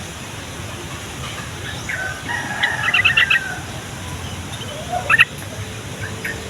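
Yellow-vented bulbul (trucukan) calling: a quick burst of bubbly chirping notes about two seconds in, then a shorter call with sharp notes around five seconds.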